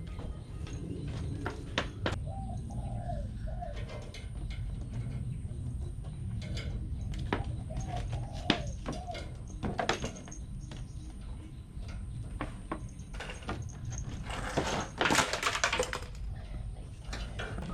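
Birds calling in short, arched, repeated calls that come in two groups, among scattered clicks and knocks, with a loud rustling burst near the end.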